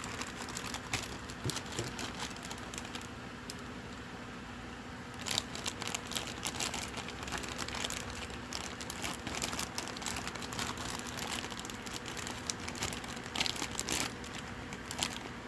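Packaging crinkling and rustling as it is handled and unwrapped, with irregular crackles that are busiest about five seconds in and again near the end.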